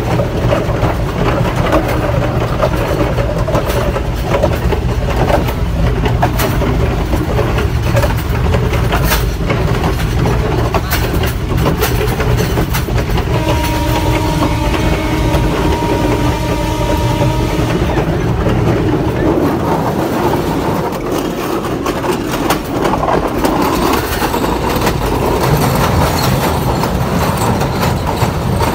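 Diesel train running along the track: a steady engine rumble with clicks of the wheels over rail joints. About halfway through, a horn sounds for about four seconds. Near the end the train rolls onto a steel truss bridge.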